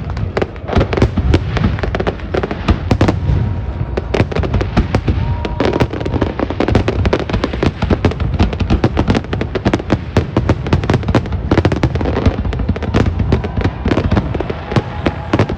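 Fireworks finale: a dense, unbroken barrage of bangs and crackles, many a second, loud throughout.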